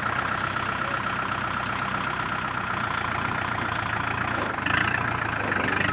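Kubota MU4501 tractor's diesel engine idling steadily just after starting, getting a little louder near the end.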